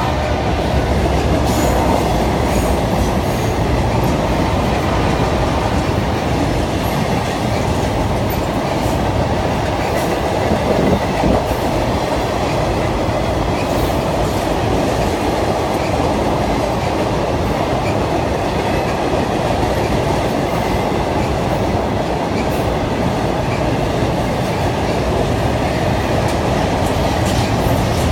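Intermodal freight train's cars rolling steadily across a steel trestle bridge: a continuous rumble of wheels on rail with occasional clicks over the joints.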